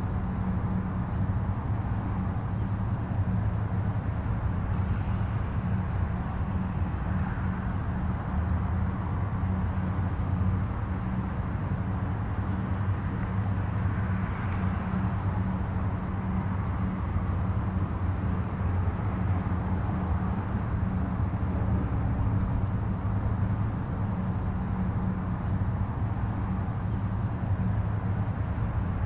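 Distant highway traffic: a steady low rumble of tyres and engines, with faint swells as individual vehicles pass.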